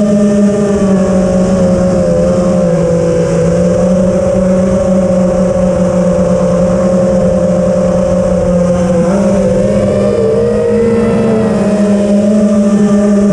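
Multirotor drone's propellers humming steadily, the pitch dipping and shifting about nine seconds in as it manoeuvres, then settling again.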